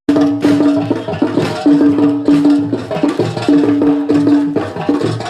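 Traditional folk music: a melody of long held notes in phrases over a quick, steady percussion beat.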